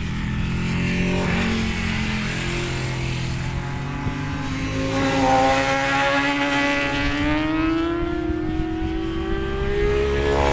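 Racing motorcycle engines running on the circuit; from about halfway through, one engine's pitch climbs steadily as it accelerates.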